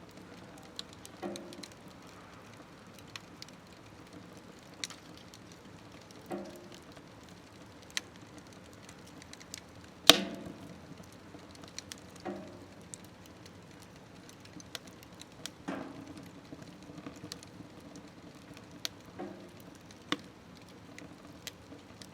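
Wood fire crackling in a small smokeless wood stove, with scattered sharp pops and softer puffs every few seconds; the loudest pop comes about ten seconds in.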